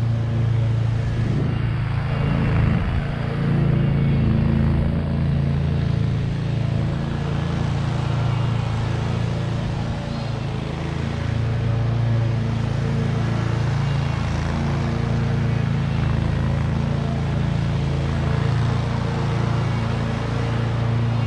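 Lawn mower engine running steadily at working speed while mowing, with an even, unbroken drone.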